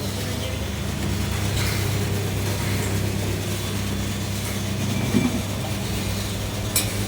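Electric motor of a coconut milk machine running with a steady hum, with a few light knocks and clicks from the machine.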